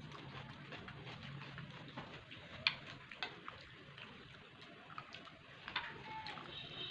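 Close-up eating sounds of a person eating rice and curry by hand: chewing with wet mouth clicks and lip smacks, irregular and sharp, the loudest about two and a half seconds in.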